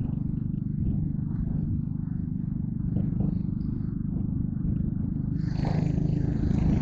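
Yamaha Crypton R's small single-cylinder four-stroke engine running at a steady low pace, a fast even pulsing. About five seconds in, a hiss of wind or road noise joins it.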